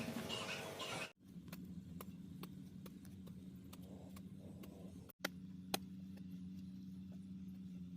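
Steady low hum of an engine running, with scattered light clicks. It breaks off abruptly twice, as at edits.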